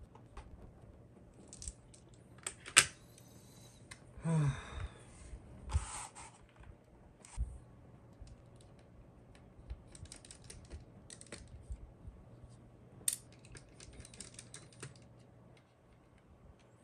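Small plastic and metal clicks and clacks as keyboard parts for a Happy Hacking Keyboard build are handled and fitted together. There is one sharp click about three seconds in, then a short scrape that falls in pitch, and clusters of light ticks later on.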